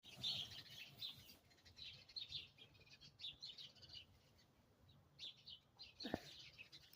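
Faint, irregular high chirping, in repeated short clusters, with a single brief knock about six seconds in.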